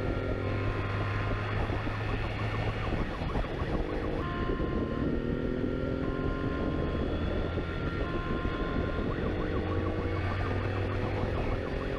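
Police motorcycle engine running and climbing in pitch again and again as it accelerates through the gears, with its siren sounding over it.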